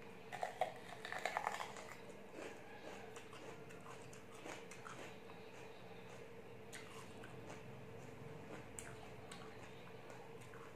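Biting into a whole raw green bell pepper: a loud cluster of crisp crunches in the first two seconds, then quieter wet chewing and crunching of the pepper flesh.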